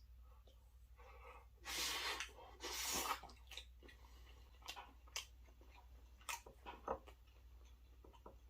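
Close-miked chewing and mouth sounds of a man eating chicken and shrimp in creamy alfredo sauce: two loud rushes of noise about two and three seconds in, then scattered wet clicks and smacks.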